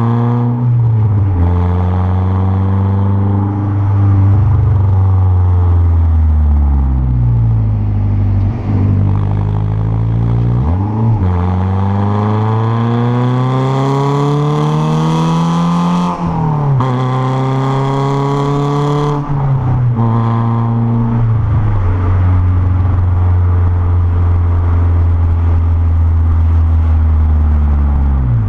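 Renault Clio 1.6 16v's K4M four-cylinder engine, breathing through a K&N intake and a straight-through 2-inch exhaust. It is revved up and down several times, with a couple of quick drops in pitch, then holds a steady note near the end.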